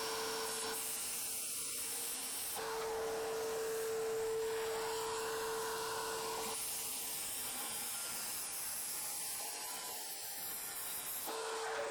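Cordless circular saw cutting into the roof, its steady whine starting and stopping three times, over the continuous hiss of a vacuum cleaner hooked to the saw for dust extraction.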